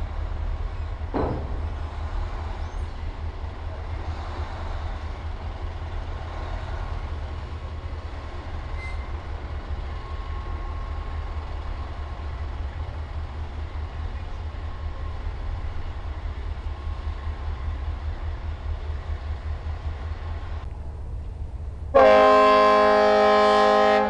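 A steady low rumble in a harbour, then, about two seconds before the end, a loud ship's horn blast that starts abruptly and holds steady.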